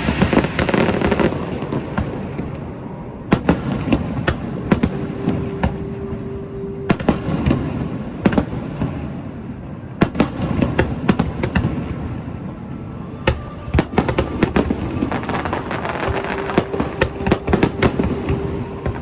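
Fireworks display: a rapid string of bangs and crackling bursts, with clusters of reports around three, ten and fourteen to eighteen seconds in.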